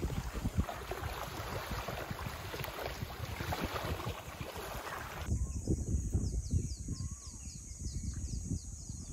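Wind buffeting the microphone with surf rushing on the beach. About five seconds in, this cuts to a steady high insect drone with quick repeated chirps and scattered bird calls over a low wind rumble.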